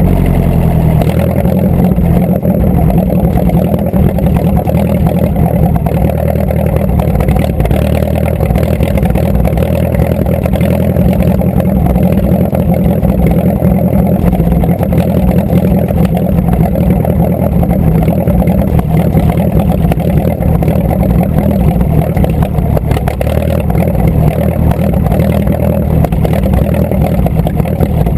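A vehicle engine running steadily under way, with a small shift in pitch in the first second and then an even note.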